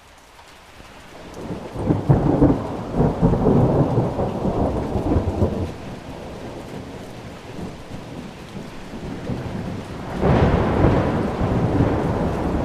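Thunderstorm: steady rain fades in, then thunder rumbles loudly from about two seconds in for several seconds. A second peal of thunder rolls in near the end.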